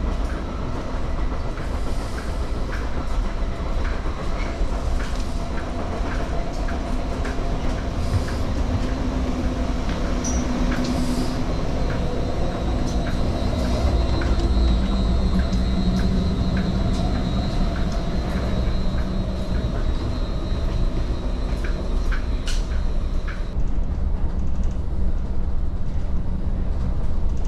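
Cabin running noise of a Caltrain electric multiple unit in motion: a steady low rumble of wheels on track with scattered light clicks and no engine. A faint high steady tone comes in about ten seconds in and stops a few seconds before the end.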